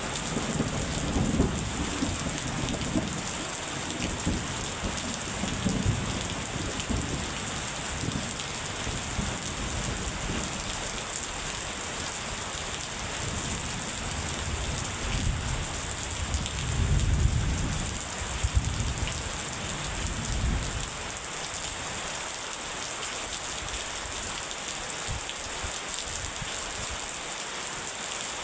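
Steady heavy rain hissing on a surface, with rolling thunder underneath: low rumbles in the first few seconds, a louder roll of thunder a little past the middle, then the thunder dies away and only the rain remains.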